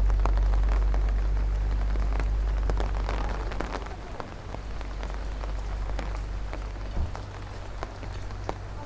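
Heavy rain falling on the street, a dense hiss scattered with sharp ticks of individual drops. Under it a deep rumble eases off about halfway through, and there is a single soft knock near the end.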